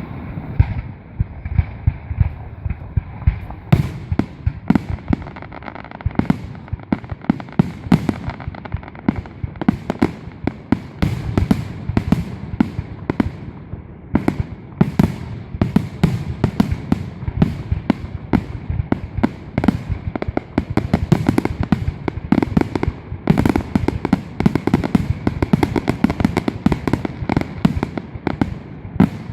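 Fireworks display: a rapid, continuous barrage of shell bursts and crackling bangs over a low rumble, denser and sharper from about four seconds in.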